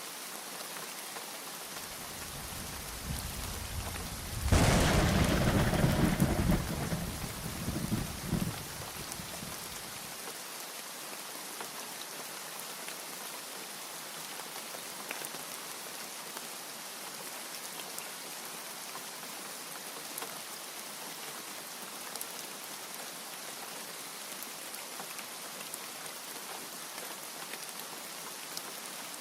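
Steady heavy rain with a clap of thunder: a low rumble builds about two seconds in, breaks into a sharp loud crack a couple of seconds later, and rolls away over the next five seconds, leaving the rain alone.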